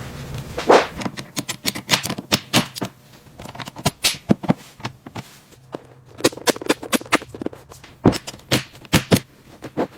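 A quick, irregular run of sharp clicks and knocks, several a second, like hard objects tapping and striking against each other.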